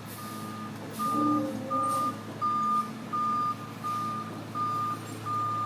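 Recycling truck reversing, its backup alarm sounding a steady single-tone beep about every 0.7 s over the engine's steady low running.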